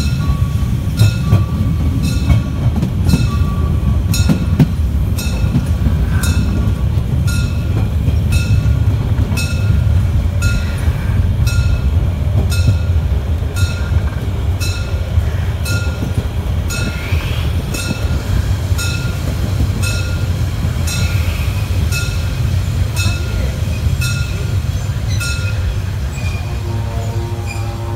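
Narrow-gauge steam train of the Molli Railway rolling through a town street, heard from the carriage: a steady low rumble of the train. Over it, a bell is struck about three times every two seconds, and its strokes fade out near the end.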